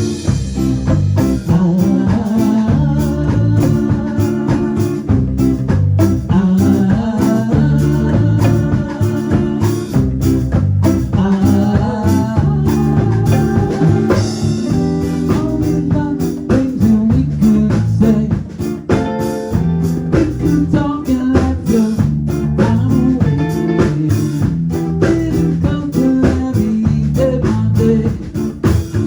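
A band playing an instrumental passage, with guitar over a drum kit keeping a steady beat.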